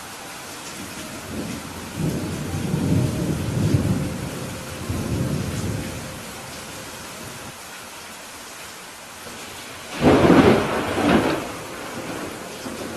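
Steady rain with thunder: a low rolling rumble from about two to six seconds in, then a louder, sharper clap of thunder about ten seconds in that rolls on for a second or so.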